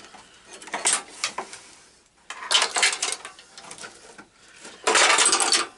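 Metal tools and parts clattering and scraping in three bursts of handling, the loudest near the end.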